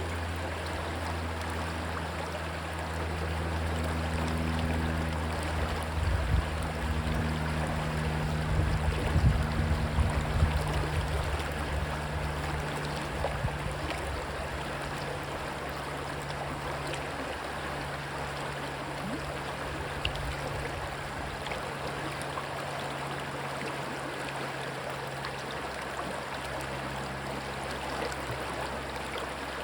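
Rushing water from a stream, steady throughout, with the low engine drone of a passing plane that swells in the first several seconds and fades away near the end. Low rumbles, likely wind on the microphone, come during the loudest stretch.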